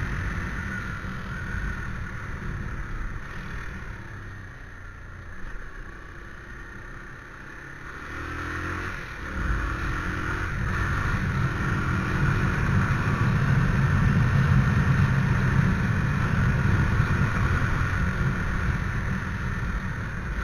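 Motorcycle engine running while riding, with low road and wind rumble. It eases off for a few seconds, then picks up about eight seconds in, with the engine pitch rising as it accelerates.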